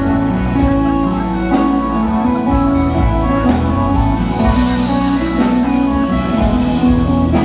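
Live luk thung / mor lam band playing an instrumental passage, with held melodic notes over a steady drum beat.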